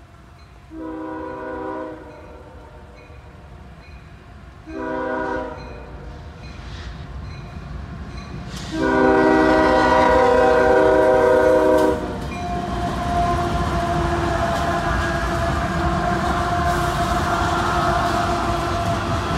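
Locomotive air horn sounding three blasts, the first two short and the third long and loudest, as the train approaches a grade crossing; then the train rumbles past with its wheels clacking on the rails.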